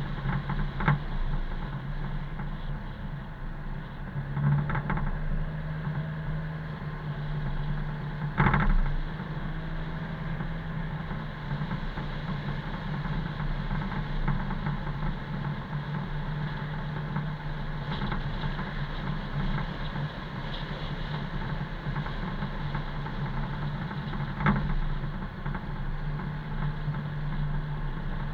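Car driving: a steady engine drone with road noise, broken by a few short thumps, the loudest about eight seconds in.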